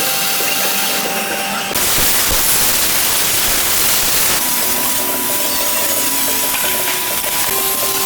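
Continuous harsh hissing noise of a power tool working metal, growing fuller about two seconds in, with a thin steady whine joining around halfway.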